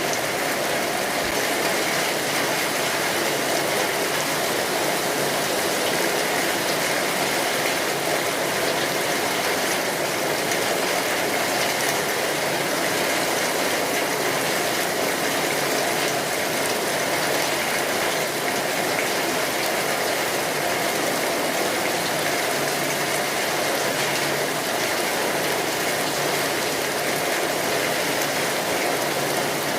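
Steady rainfall: an even, unbroken wash of many small drops, with no change in strength.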